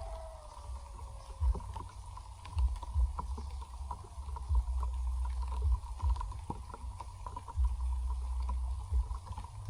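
Wind buffeting the microphone in uneven gusts, a deep rumble that comes and goes, with scattered light ticks and a faint steady high tone behind it.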